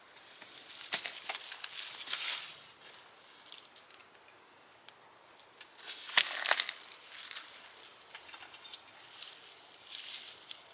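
Rustling and scraping of loose garden soil and sweet potato vines being dug through by hand, in irregular bursts with a few sharper ones about a second, two seconds and six seconds in.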